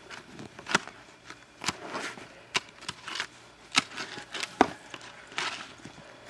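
Footsteps crunching through deep snow, a sharp crunch about once a second with softer rustling between.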